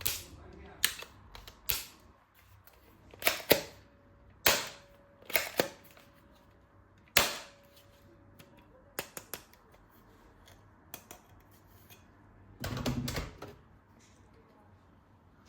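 Hard plastic toy gun parts clicking and snapping as they are handled, at irregular intervals, with a quick rattling run of clicks near the end.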